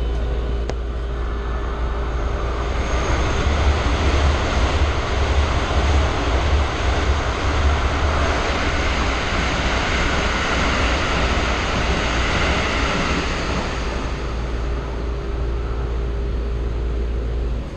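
Steady low hum of a standing train carriage, with a broad rushing noise that swells up about three seconds in and fades away again about eleven seconds later.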